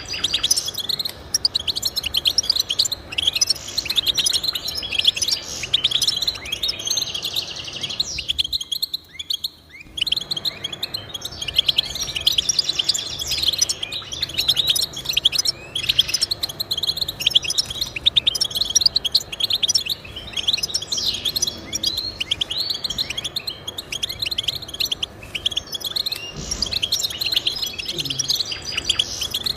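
Goldfinch singing: a fast, continuous twitter of quick high notes and trills, broken by a brief pause about nine seconds in.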